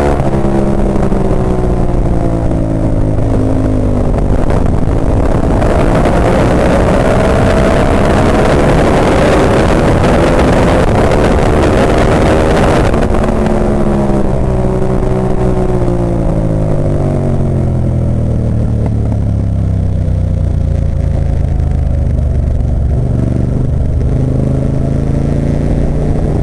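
Ducati 998's V-twin engine heard from on board: the revs drop, climb again for several seconds under a loud rushing noise, then fall steadily to a low, steady note over the last few seconds.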